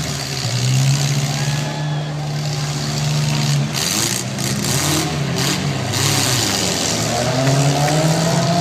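Demolition derby cars' engines running and revving, their pitch rising and falling as they are driven around the arena.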